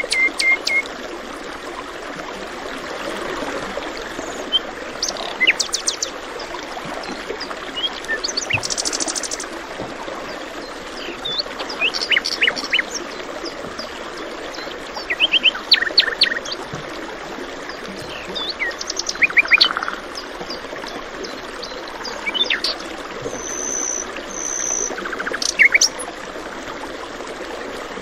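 Several songbirds chirping and trilling in short phrases over the steady rush of flowing water.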